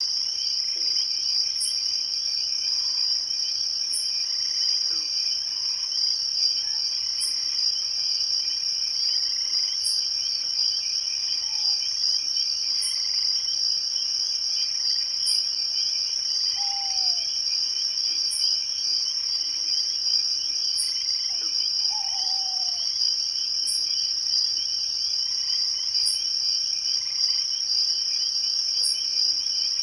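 Steady night chorus of insects, dense and continuous. A sharp high tick repeats about every two and a half to three seconds, and three short falling calls sound in the middle.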